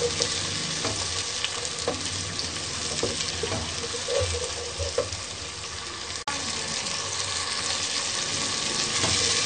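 Onions, tomatoes and garlic-ginger paste sizzling in hot ghee in a pot, stirred with a wooden spoon that knocks lightly against the sides, as the tomatoes fry down until soft. The sound briefly cuts out about six seconds in, then the sizzle carries on steadily.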